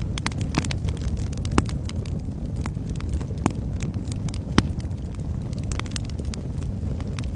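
Wood fire burning in a fireplace: a steady low rumble of flames with irregular sharp crackles and pops from the burning logs, the sharpest about a second and a half in and again between four and five seconds in.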